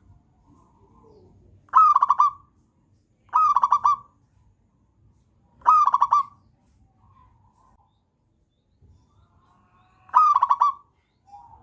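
Zebra dove singing: four short phrases of quick, rippling coos, each about half a second long, with fainter cooing between them.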